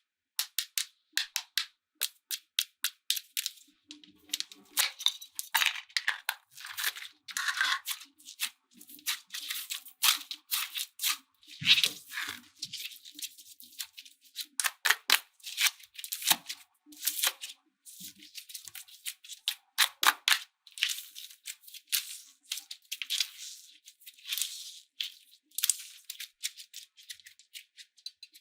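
Slime being worked by hand: rapid, irregular crackling and clicking that goes on throughout.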